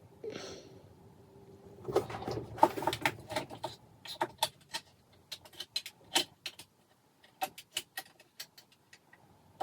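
Small parts being handled on a workbench: a quick series of irregular light clicks and taps, some with a slight ring, with a few louder taps in between.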